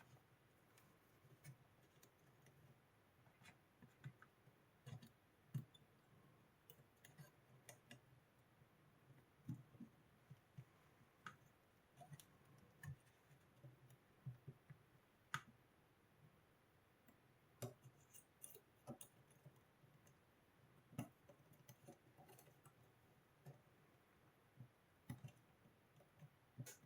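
Faint, irregular clicks and light knocks, scattered and a few seconds apart at most, over quiet room tone.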